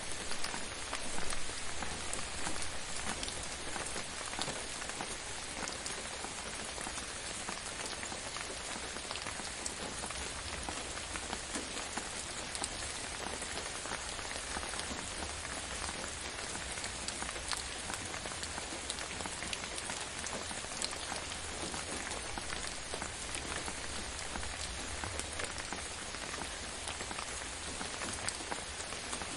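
Steady gentle rain falling on a surface, a dense patter of many small drops with a few louder drips near the start.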